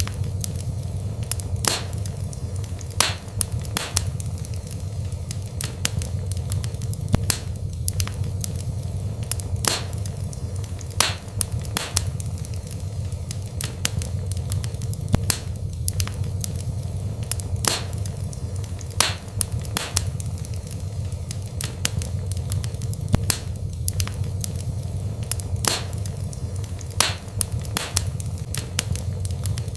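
Wood fire burning in a fireplace: irregular sharp crackles and louder pops over a steady low rumble of flames.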